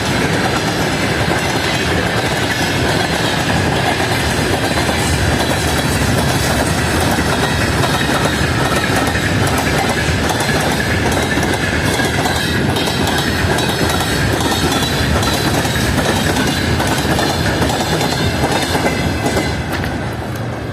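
Freight train wagons rolling past, wheels clattering over the rail joints with a steady rumble, fading away near the end as the train goes by.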